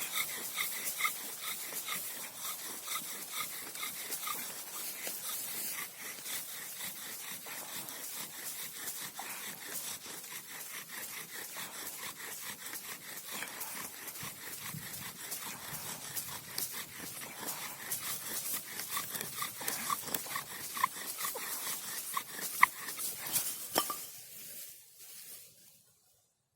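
Wooden bow-drill spindle squeaking against its hearth board as the bow is sawn back and forth, a rhythmic squeak a couple of times a second over a dry scraping hiss. It stops near the end.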